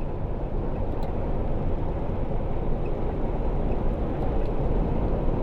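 Steady low engine and road rumble inside a semi truck's cab while driving.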